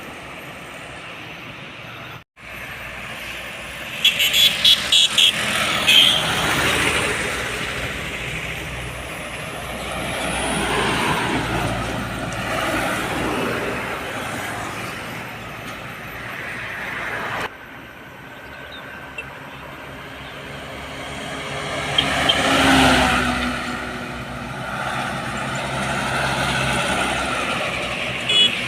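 Road traffic with trucks passing, their engines and tyres rising and falling as each goes by. About four seconds in there is a quick run of five short horn blasts.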